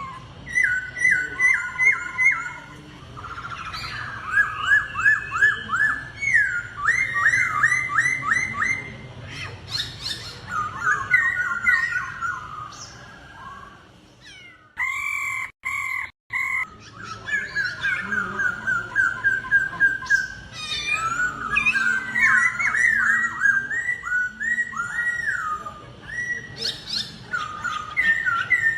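Laughingthrush (khướu) singing in a song duel: rapid series of clear, repeated whistled notes in phrases broken by short pauses. The song breaks off briefly with a couple of drop-outs about halfway through, then resumes.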